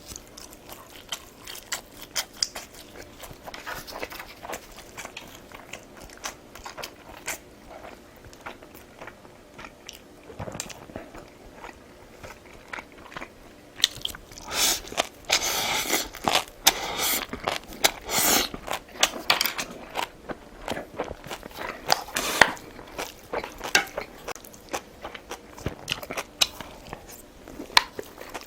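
Close-miked chewing and biting of a person eating, many small wet clicks, with a denser, louder run of bites about halfway through.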